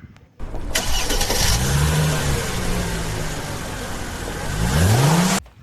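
Car engine revving, its pitch rising, holding, then dipping and rising again near the end, over a strong hiss. It starts sharply about half a second in and cuts off abruptly.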